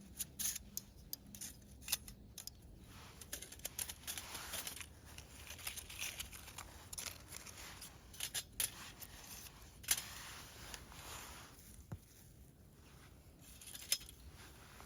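Irregular light metal clicks, clinks and scrapes with some rustling, typical of handling and fitting together thin titanium stove parts; two sharper clicks stand out about ten seconds in and near the end.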